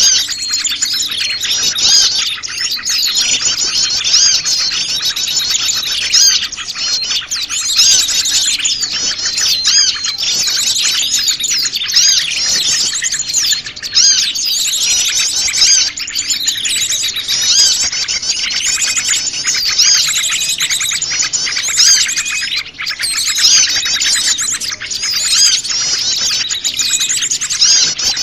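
A dense, noisy chorus of many small wild birds chirping and twittering over one another without a break: a mixed small-bird lure call.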